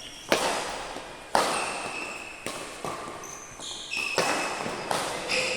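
Ball impacts during a training session, about seven irregular hits, each with a short ringing tail, and short high squeaks between them.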